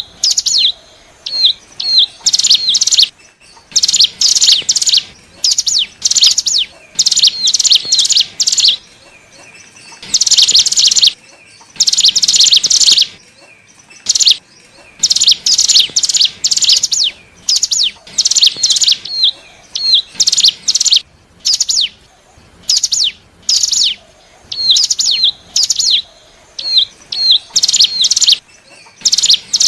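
Ciblek gunung (cigun), a mountain prinia, calling in rapid, high, chattering bursts, each from a fraction of a second to about a second long, repeated after short gaps with small rising chirps between them. It is a lure call used to draw wild cigun in.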